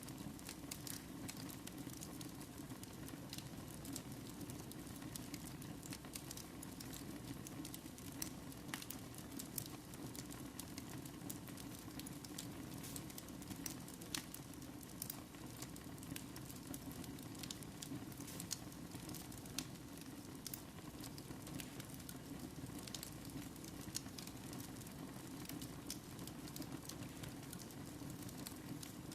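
Wood fire burning in a fireplace: a steady low rush of flames with frequent small sharp crackles and pops scattered throughout.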